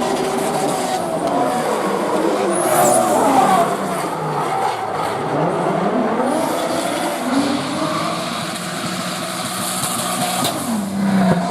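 Toyota Supra Mk4's 2JZ inline-six turbo engine revving up and down hard while drifting, over tyre squeal.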